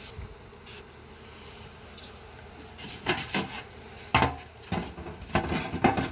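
Honey bees buzzing, then from about three seconds in a run of sharp wooden knocks and clatters as hive lids and boxes are handled and set on crooked.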